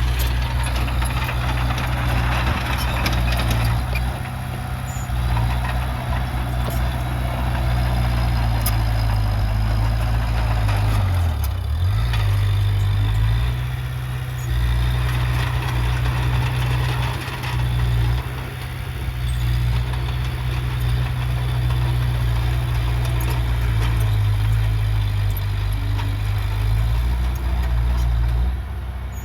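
Heavy diesel engine of earthmoving machinery running steadily under load. Around eleven seconds in, its note drops briefly and comes back up.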